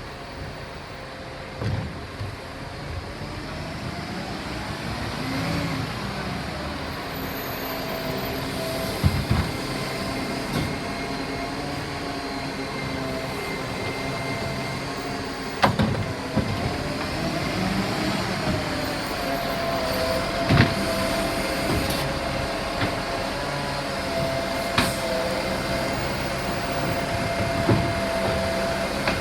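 Euro 6 garbage truck working a bin collection: a steady engine-and-hydraulic whine that rises and falls in places, with sharp clunks every few seconds as the bins are handled.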